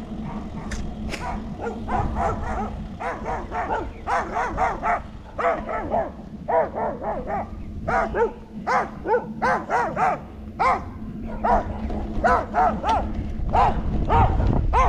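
A dog barking repeatedly, in quick runs of sharp barks.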